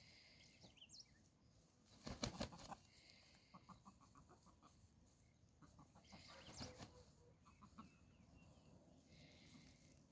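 Faint sounds from a pair of gamecocks foraging in grass: a brief rustling flurry about two seconds in, then a quick run of soft ticking clucks, with another short rustle a few seconds later.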